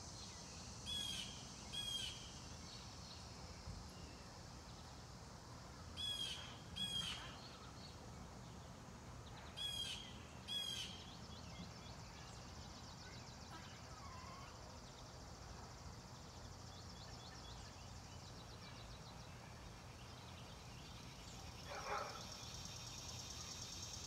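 A bird giving short, high calls in pairs about a second apart, three pairs in the first eleven seconds, over a steady high drone of insects; a single lower call comes near the end.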